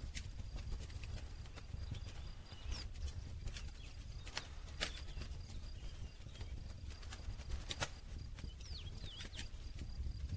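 Wood campfire crackling: irregular sharp pops and snaps over a low steady rumble of the flames, with the loudest pops about five and eight seconds in.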